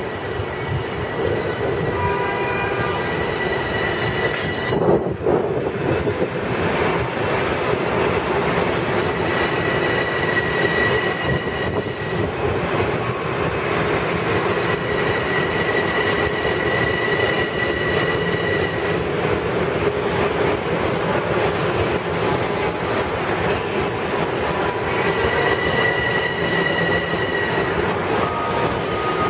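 Bombardier M7 electric multiple-unit train running into the station and slowing alongside the platform: a steady clatter of wheels on rail, with a high squeal that comes and goes several times.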